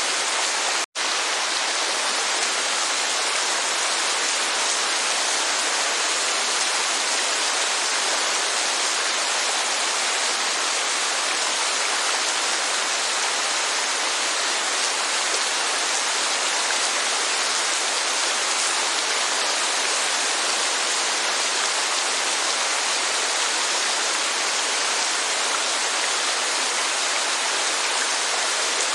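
Steady, even rainfall hiss, cutting out for an instant about a second in.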